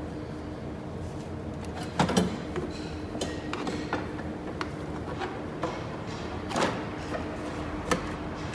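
Irregular metallic clicks and clanks of hand tools and engine parts being handled, the loudest knocks about two seconds in and near the end, over a steady low hum.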